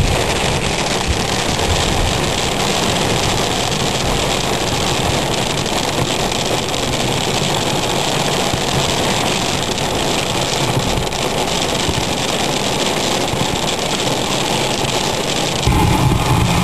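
Steady noise of heavy rain and wind on a car in a severe thunderstorm, with the car's engine running under it. A deeper low rumble comes in near the end.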